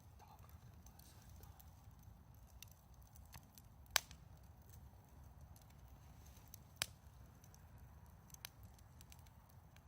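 Wood campfire crackling faintly, with a few sharp pops, the loudest about four and seven seconds in, over a low steady rumble.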